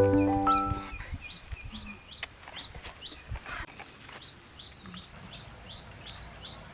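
A songbird repeating short, high, down-slurred chirps at about two a second, in a steady series.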